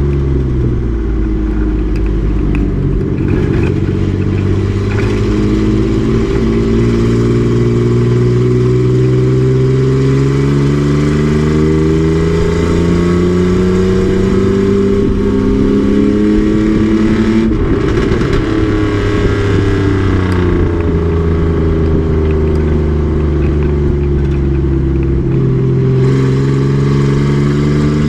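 Race truck's engine pulling hard on track, its pitch climbing slowly and steadily. About two thirds of the way through it dips sharply with a brief clatter, then climbs again, and it drops once more near the end.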